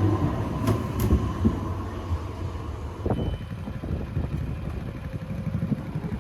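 Street sound of passing road traffic: an uneven low rumble with a general city hiss, and two sharp clicks about a second in.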